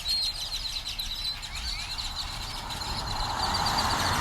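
A flock of many birds chirping together in trees, a dense chatter of short, high, repeated calls. About three seconds in, the rising hiss of a passing vehicle on the road grows under the chorus and becomes the louder sound.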